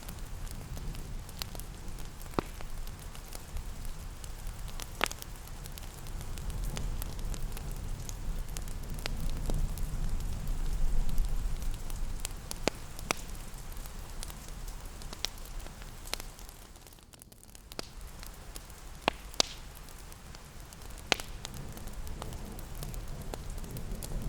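Crackling wood fire in a fireplace: scattered sharp pops and snaps over a low steady rumble, with a soft hiss of rain beneath. The sound thins out briefly about two-thirds of the way through.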